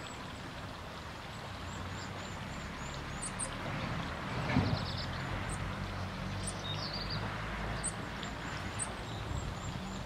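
High, thin chirps from small birds: a quick series of about three a second for the first few seconds, then scattered single notes and a few lower chirps, over a steady low hum.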